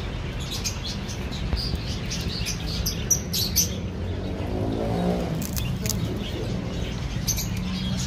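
Birds chirping in short, high calls over a steady low rumble of street background, with a brief rising pitched sound about five seconds in.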